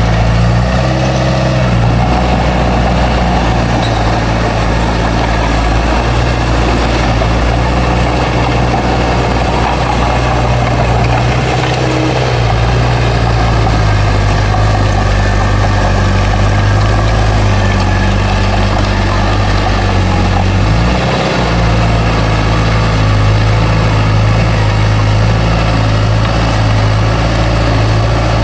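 Bulldozer's heavy diesel engine running steadily, its pitch shifting briefly a few times as the load changes: near the start, about twelve seconds in and about twenty-one seconds in.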